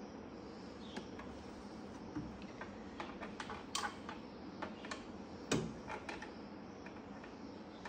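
Irregular light clicks and taps of hand tools and metal parts being handled, with a heavier knock about five and a half seconds in.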